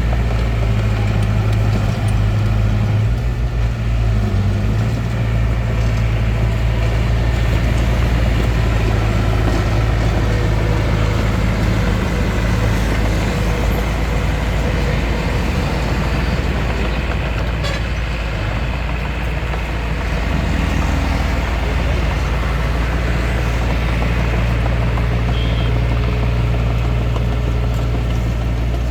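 Hitachi DX45M bulldozer's diesel engine running steadily with a deep hum, the machine working.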